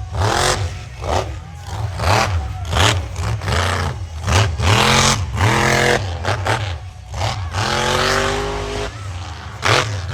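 Monster truck engine revving hard in quick repeated bursts, its pitch climbing and dropping back again and again, with one longer climbing rev about eight seconds in.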